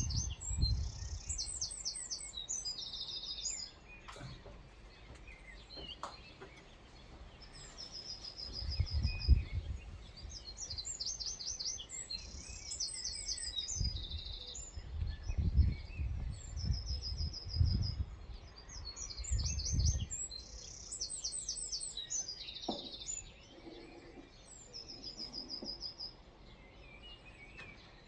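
Birds singing in short, high-pitched trilled phrases repeated every second or two. Low rumbles come and go underneath, the loudest about nine seconds in and again between fifteen and twenty seconds.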